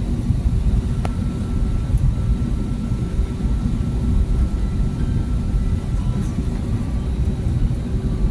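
Steady low rumble of an Airbus A320neo's engines and airframe heard inside the passenger cabin, with a faint steady hum over it and a single light click about a second in.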